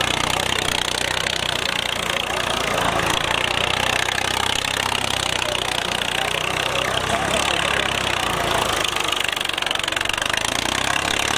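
Tractor engine running steadily, with a dense haze of background noise over it.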